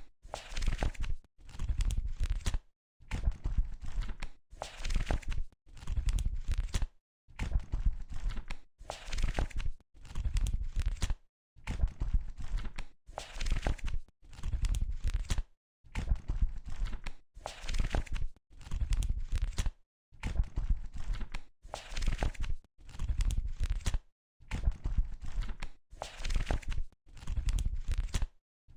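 Book pages being turned one at a time, one page about every two seconds. Each turn is a short, crinkly paper rustle of a few quick strokes, with silence between turns.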